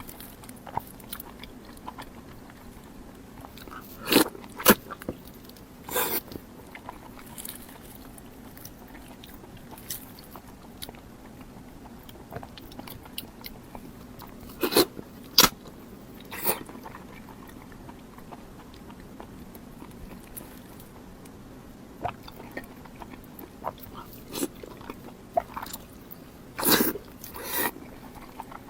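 Close-miked eating sounds: bites and wet chewing smacks, coming in scattered clusters of sharp clicks separated by quieter stretches, over a faint steady low hum.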